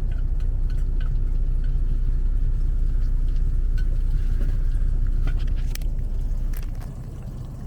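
Semi-truck diesel engine idling, a steady low rumble heard inside the cab, with a few light clicks of handling. The rumble gets quieter about seven seconds in.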